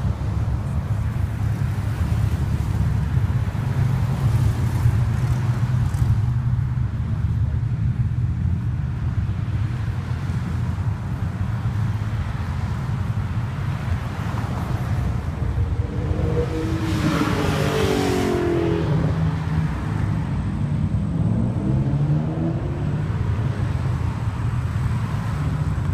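Classic car engines rumbling along the road in a steady low drone. About sixteen seconds in, one car passes close, its engine pitch rising and falling. Weaker engine pitch changes follow a few seconds later.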